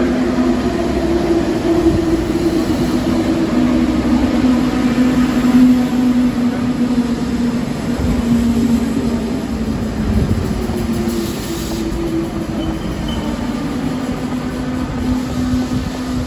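RER B MI84 electric multiple-unit train running through the station without stopping. Its traction motors give a steady two-note hum over continuous wheel and rail noise, and the higher note fades away about twelve seconds in as the train leaves.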